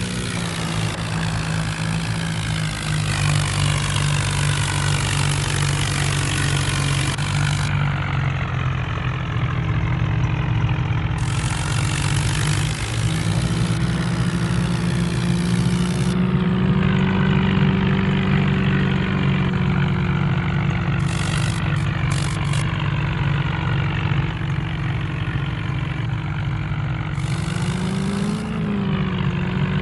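A tractor engine sound running steadily, with its pitch rising slightly a couple of times, and a hiss that cuts in and out abruptly.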